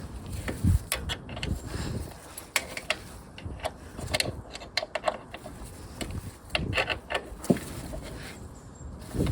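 Irregular clicks, clinks and knocks of hand tools and metal parts being handled during motorcycle exhaust work, with a few heavier thuds.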